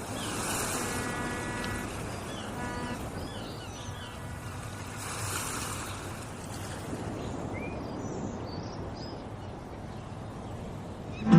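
Sea surf washing ashore, swelling twice, with short high chirps over the wash.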